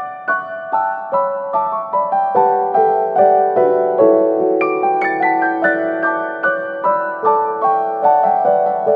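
Gentle solo piano music, single notes struck at an even pace of about two a second over a sustained lower line.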